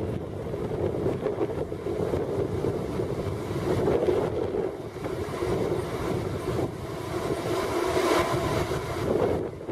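A train running past, with wind buffeting the microphone; a pitched mechanical note comes up out of the noise about eight seconds in.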